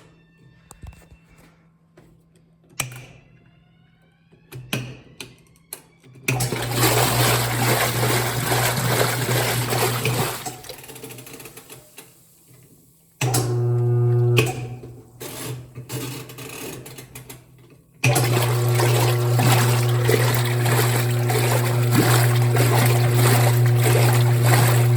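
A 2007 Frigidaire washing machine's motor and drive starting up with a steady hum while water churns in the tub. It runs for a few seconds, cuts out, runs again briefly, then starts once more and keeps running. Before it starts, a few knocks and clicks.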